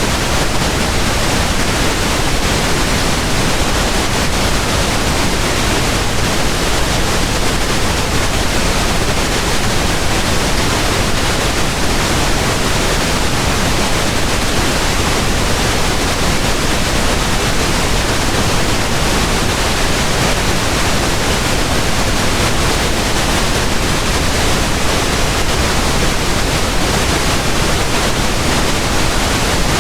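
Pink noise: a steady, even hiss with a deep, soft tilt, unchanging throughout, much like a constant waterfall.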